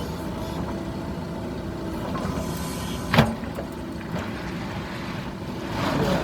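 Mahindra backhoe loader's engine running steadily, with one sharp, loud knock a little over three seconds in.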